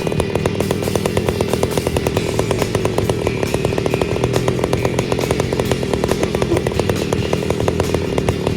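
Stihl 029 chainsaw's two-stroke engine, freshly rebuilt with a 45 mm cylinder and piston, running steadily with a fast, even pulse.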